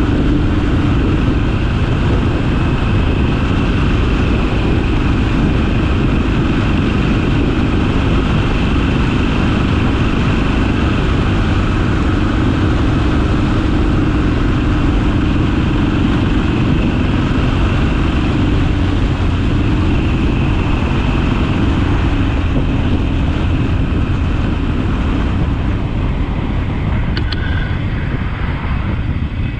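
Harley-Davidson Sportster's V-twin engine running steadily while riding, with a constant rush of wind and road noise. Near the end the sound eases a little.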